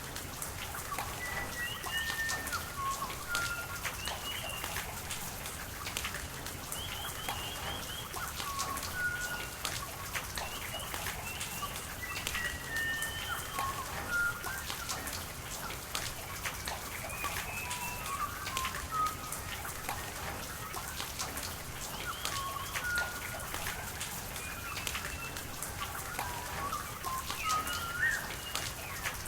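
Steady rain with sharp drop ticks, and birds calling throughout in many short chirps and whistles.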